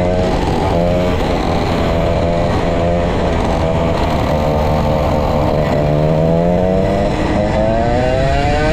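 Vintage go-kart's 135cc Sudam engine at racing speed, its pitch rising and falling again and again as the kart accelerates and lifts. A long rising climb in pitch follows over the last couple of seconds.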